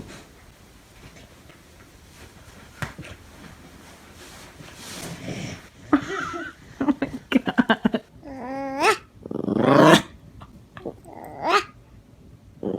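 A dog growling and whining. The calls come in the second half, several short ones and then a few longer ones that bend in pitch.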